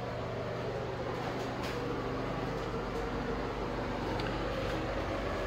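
Steady mechanical hum of building ventilation, an even whooshing noise with a constant low drone.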